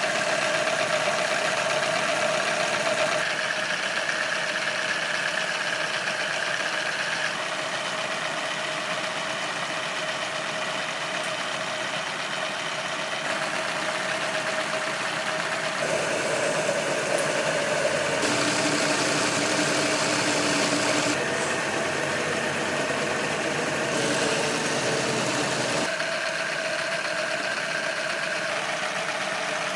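Miniature model V-16 engines and their gearing running steadily, a continuous mechanical whir with steady tones. The mix of tones changes abruptly several times.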